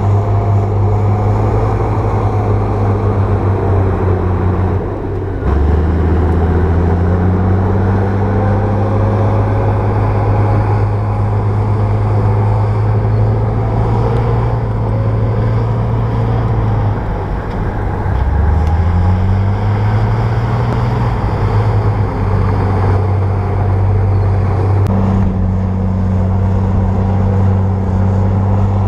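Bulldozer diesel engine running hard and continuously. Its note drops sharply about five seconds in and again around eighteen seconds, each time climbing back up over a second or two.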